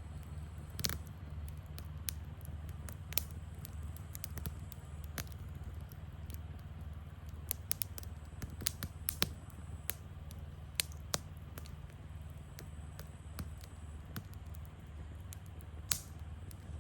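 Wood campfire crackling: irregular sharp pops and snaps, some in quick clusters around the middle, over a steady low rumble.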